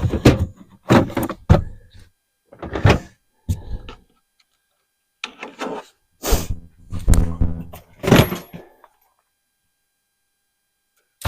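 Boxes and gear being handled and shifted: a run of clunks, knocks and clatters, then a longer stretch of scraping and banging about six to eight and a half seconds in. The sound cuts out completely near the end.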